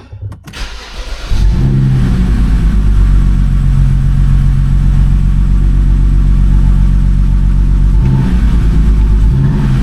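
BMW N52 straight-six engine starting about a second in, then idling with a steady, slightly pulsing beat and a misfire still audible. The misfiring coil has just been moved from cylinder 2 to cylinder 1.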